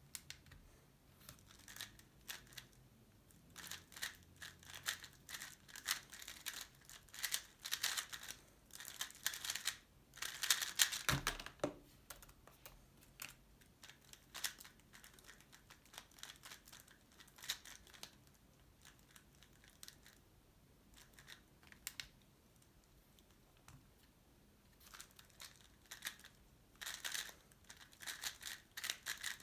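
Tornado V3 Pioneer magnetic 3x3 speedcube being turned fast, a dense clatter of layer clicks in bursts with a quieter stretch in the middle, and a single thump about eleven seconds in.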